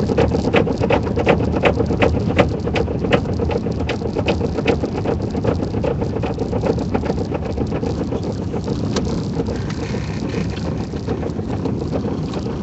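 Loose tire chain on a car's wheel slapping the inside of the wheel well in a steady rhythm of about three slaps a second, over tire and engine noise on snow. The slaps fade out about halfway through. The occupants take this for excess chain length hitting the inner frame.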